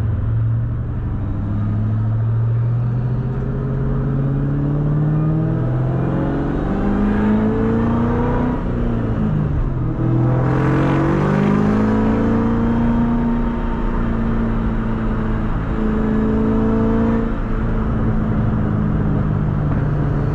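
2003 Mustang Cobra's supercharged 4.6-litre V8 accelerating, its pitch climbing, dipping briefly about ten seconds in as a gear is changed, then climbing again before settling to a steadier cruise.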